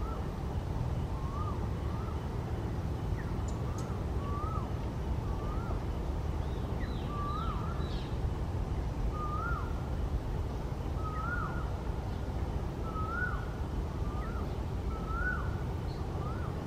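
A bird repeating a short call that rises and then drops, about once a second, over a steady low rumble, with a few faint higher chirps about halfway through.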